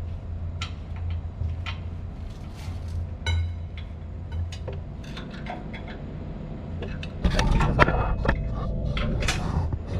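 Metal clinks and taps from hand tools and steel parts being worked on a motor's base during shaft alignment, over a steady low hum. About seven seconds in, a louder stretch of metal clanking and scraping lasts about two and a half seconds.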